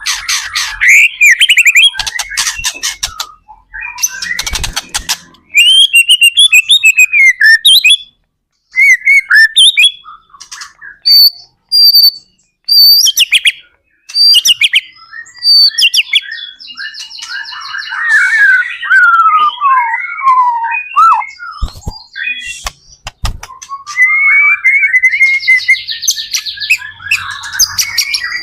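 White-rumped shama (murai batu) singing in full, loud song: phrase after phrase of varied rich whistles, sliding notes and rapid chattering trills, with short pauses between phrases.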